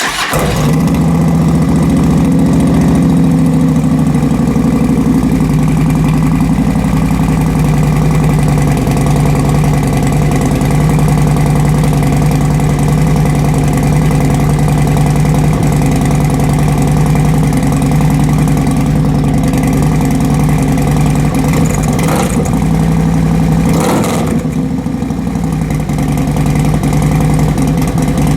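Harley-Davidson Road Glide V-twin with a D&D aftermarket exhaust and upgraded intake starting from cold, then idling steadily and loudly.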